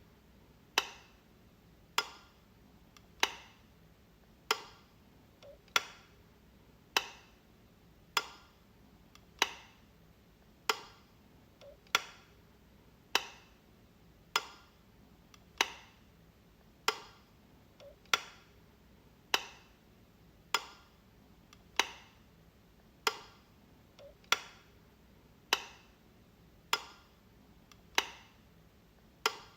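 Wall light switch clicking, one sharp click about every second and a quarter, some with a faint softer tick just before.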